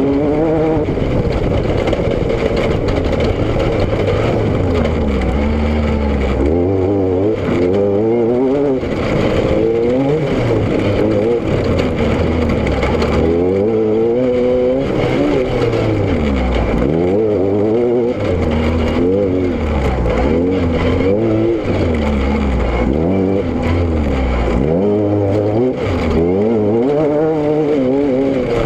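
Car engine revving up and dropping back repeatedly, its pitch climbing and falling every second or two as the car accelerates and slows, with steady road and wind noise underneath.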